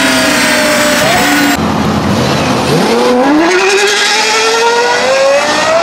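Lexus LFA's 4.8-litre V10 held at high revs under load on a dynamometer, its high note wavering with small upward flicks. After a cut, the V10 revs up from low rpm, its pitch climbing steadily for about three seconds.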